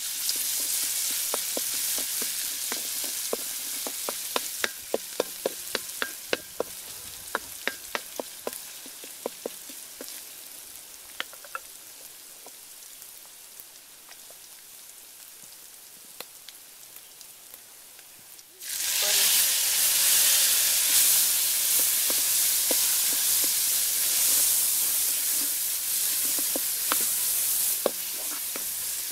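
Egg frying in hot oil in a wok, sizzling with many sharp pops at first, then slowly quieting. About two-thirds of the way through it jumps to a louder, steady sizzle as the egg is stirred with a wooden spatula.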